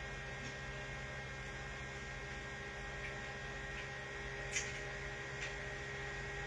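Steady electrical mains hum, with a couple of faint clicks in the second half.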